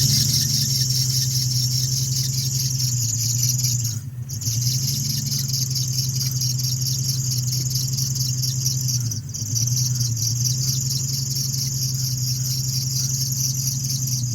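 2003 Infiniti G35's 3.5-litre V6 being cranked over on its starter without catching, in three long cranks with brief pauses about four and nine seconds in. The fuel pump is not running, so the engine gets no fuel.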